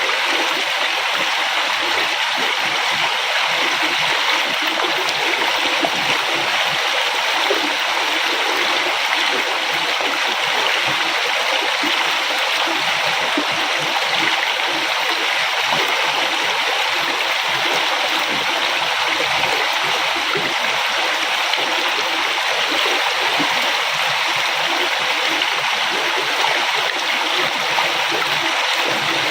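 A river running steadily over rocks, an unbroken rush of flowing water with gurgling and splashing.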